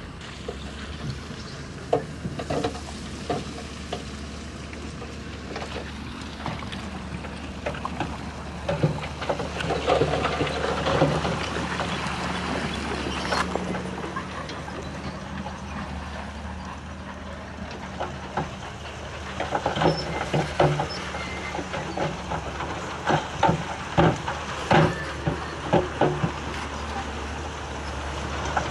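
Heavy diesel earthmoving machinery working: a steady engine drone with frequent sharp clanks and rattles of metal and stone, in clusters throughout.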